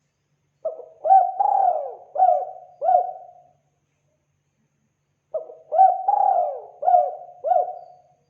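Spotted dove (tekukur) cooing: two identical phrases of about five coos each, a few seconds apart. This is a dove call played as a lure to draw wild doves in.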